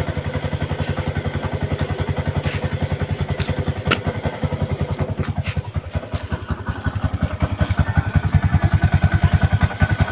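Yamaha YTX 125's single-cylinder four-stroke engine idling through a gutted 'kalkal' open exhaust pipe, a rapid, even exhaust beat. It gets somewhat louder about eight seconds in.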